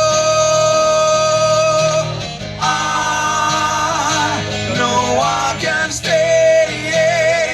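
Live music: a male voice holds long sung notes with vibrato over guitar accompaniment, a sustained note up to about two seconds in, then wavering held notes.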